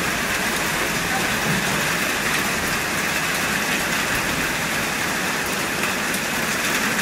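Rain falling steadily as an even hiss, with faint scattered ticks mixed in that may be hail: something like ice crackling.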